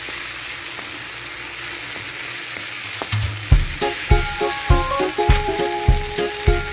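Chopped onions and garlic sizzling in hot oil in a metal pan as they are stirred with a wooden spatula. About three seconds in, background music with a steady beat comes in over the frying and is louder than it.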